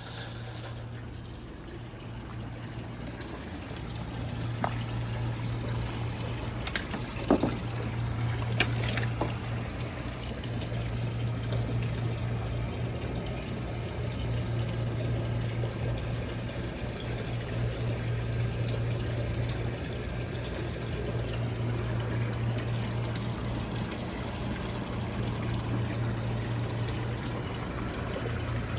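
Water running and trickling steadily over a constant low hum, with a few sharp clicks about five to nine seconds in.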